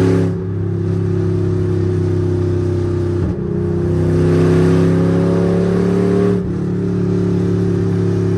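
V8 car engine accelerating under load, its pitch climbing slowly and dropping sharply at each of three upshifts: near the start, about three seconds in and about six seconds in.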